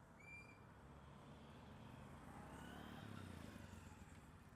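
Near silence: faint background hiss, with one brief high chirp just after the start.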